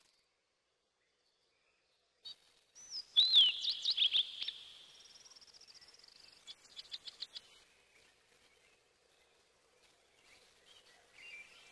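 Birdsong: about three seconds in, a loud burst of slurred whistles and chirps, followed by a rapid high trill and a quick run of short chirps, then only faint calls.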